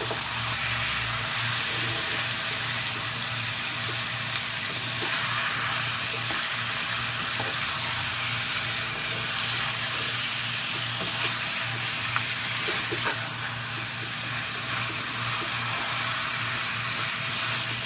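Chicken pieces sizzling steadily in hot coconut oil in a pan, stirred now and then, with a few light clicks of the utensil against the pan. A steady low hum runs underneath.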